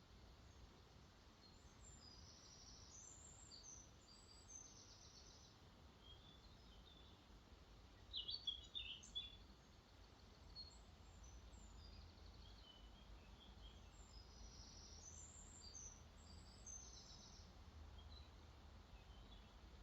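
Songbirds singing faintly, one high song phrase repeated twice, with a louder burst of chirps in the middle, over a low rumble of lake water flowing into a river.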